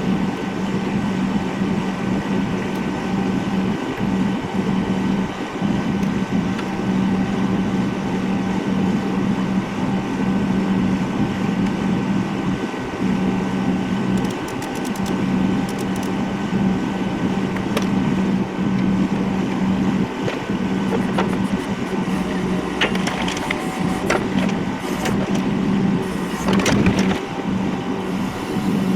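A motor running steadily with a constant hum, with scattered clicks and knocks in the second half.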